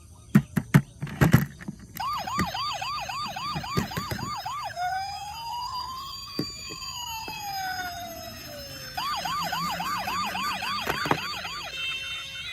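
Electronic toy emergency-vehicle siren: a fast repeating yelp, then slow rising-and-falling wails with two tones crossing each other, then the fast yelp again. It is preceded by several sharp knocks in the first second and a half, and a short electronic beeping tune starts near the end.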